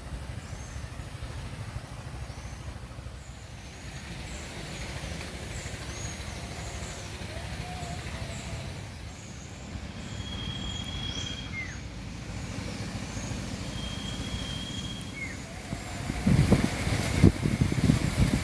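Wild birds calling: many short high chirps and quick glides, with two held whistles of about a second each midway, over a steady low rumble. A louder low buffeting comes in near the end.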